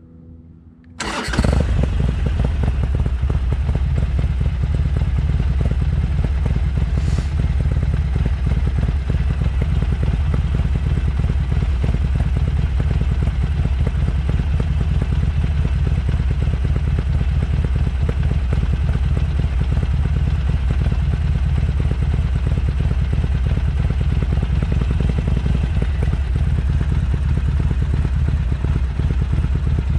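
Harley-Davidson Sportster XL1200CX's air-cooled 1200 cc V-twin exhaust: the engine comes in sharply about a second in, then idles steadily with a deep, even beat.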